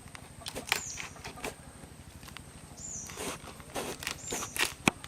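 A bird chirping three times, each a short high call that drops then holds briefly, among scattered light taps and clicks.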